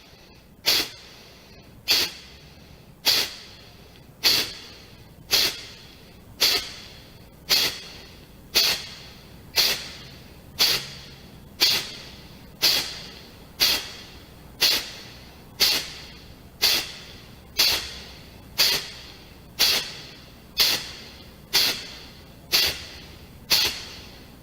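Kapalbhati breathing: a steady series of short, sharp exhalations forced out through the nose by snapping the low belly in and up, about one a second, each a quick hiss that fades at once, with the inhalations passive and barely heard between them.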